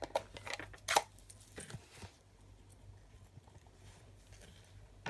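A few light knocks and rustles as a stamp and card are handled and pressed on the craft table, the sharpest about a second in, then quiet with a low steady hum.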